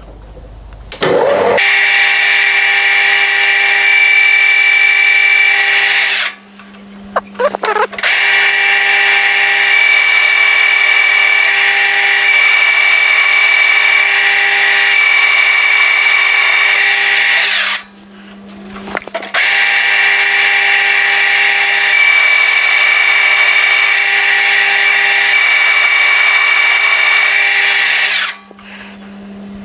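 A metal lathe turns round bar stock, taking cuts to bring its outside diameter down to 30 mm. It makes a steady whine of several tones that holds in long stretches, dropping away briefly about a third and two thirds of the way through and again near the end.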